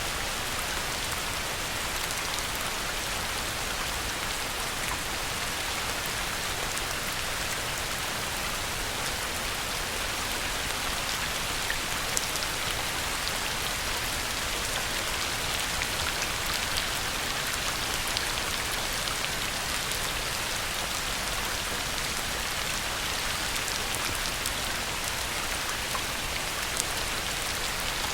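Heavy rain pouring onto a pond: a steady, dense hiss of drops striking the water, with scattered individual drop splashes standing out now and then.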